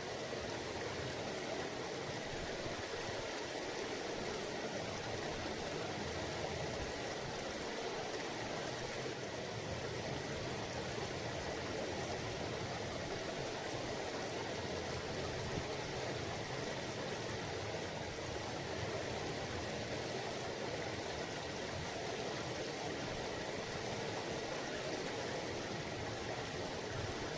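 A mountain river babbling steadily: an even, unbroken rush of flowing water.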